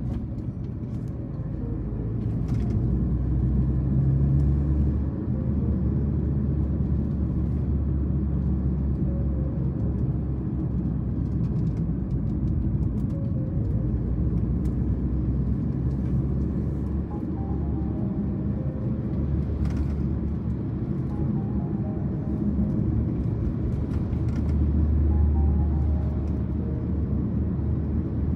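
Car driving along a road, heard from inside the cabin: a steady low rumble of road and engine noise that swells a little about four seconds in and again near the end.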